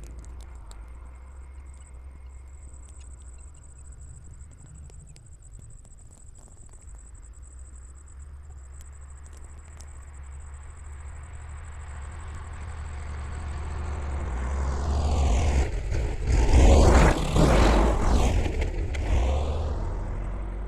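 Tractor engine running with a low steady rumble, growing louder as it draws near, passing close about three-quarters of the way through, then fading.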